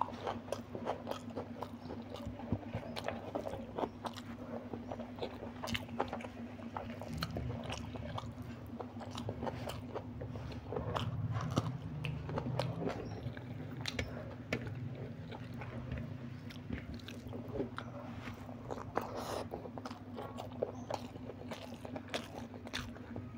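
Close-miked chewing and crunching of mouthfuls of egg biryani eaten by hand, with many irregular sharp mouth clicks.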